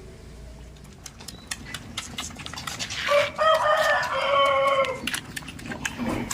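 A rooster crowing once, one long call of about two seconds, with sharp clicks and knocks before and around it.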